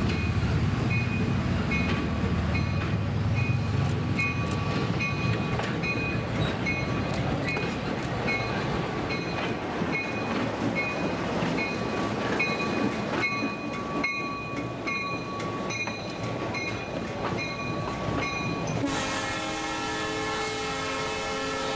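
Lima LS-1000 diesel switcher rumbling past, then passenger coaches rolling by on the rails, with a bell ringing steadily about twice a second. Near the end a horn sounds a long chord.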